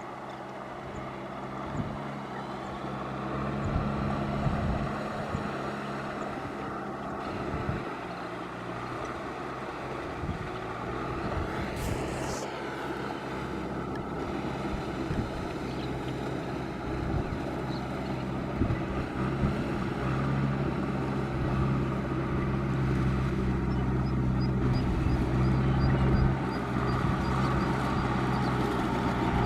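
Tractor engine running steadily under load while ploughing through flooded mud, growing louder toward the end.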